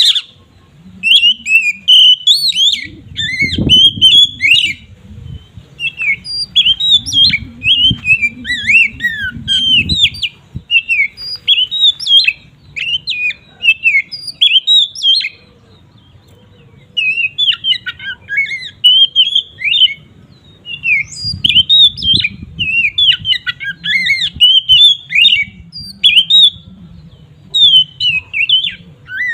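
Oriental magpie-robin (kacer) singing its full, continuous 'ngeplong' song: loud, rapid runs of varied whistled notes and chirps, broken by short pauses between phrases. A low rumble sits underneath at times.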